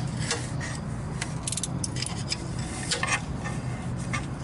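Scattered sharp metallic clinks and scrapes of a tool on steel as a bolt-and-nut spreader bracing steel plates in a sump basin is worked. A steady low hum runs underneath.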